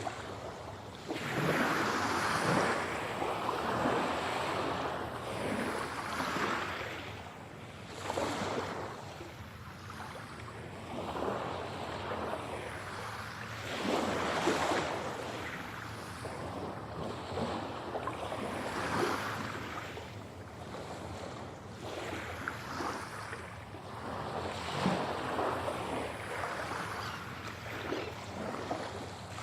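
Sea waves breaking and washing on the shore, each swell of surf rising and falling every few seconds.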